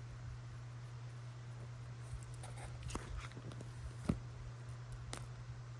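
A few light clicks and taps over a steady low hum, the sharpest about four seconds in.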